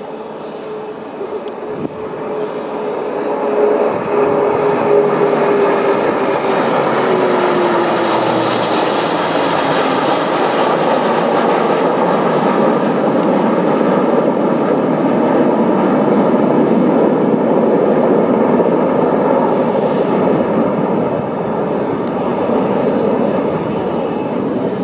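Airbus A400M's four TP400 turboprop engines: a propeller tone drops slowly in pitch over the first ten seconds while the engine noise grows loud, then holds steady.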